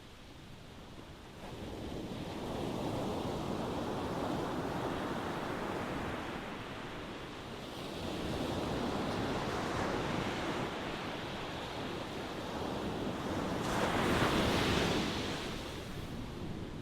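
Ocean surf: waves rolling in and washing back in slow swells. The loudest wave breaks near the end, then eases off.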